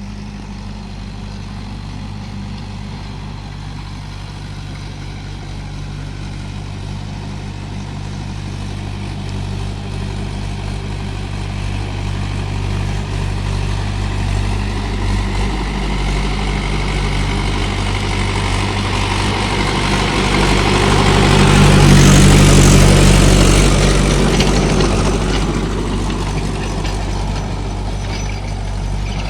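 Mahindra 575 DI XP Plus tractor's four-cylinder diesel engine running steadily. It grows louder, peaks about three quarters of the way through, then eases off a little.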